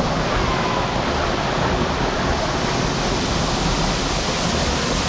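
Steady rush of hot spring water pouring and splashing into a pool, an even, unbroken noise.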